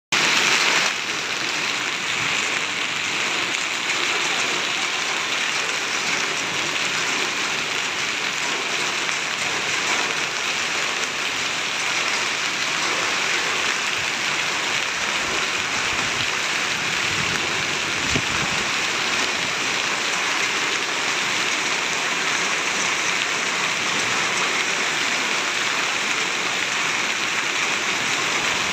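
Hail and sleet falling in a steady dense hiss of countless small impacts on hard surfaces.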